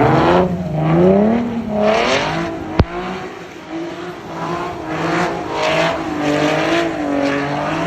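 Car engine revving up and down over and over, with the tyres spinning, as a car drifts in the snow. There is one sharp pop about three seconds in.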